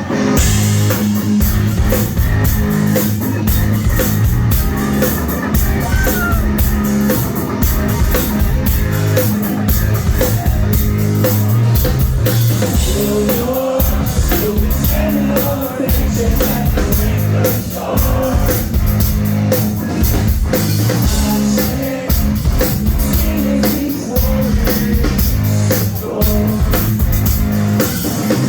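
Live rock band playing loud: pounding drum kit, guitars and bass, with some singing, heard from the crowd through a phone's microphone.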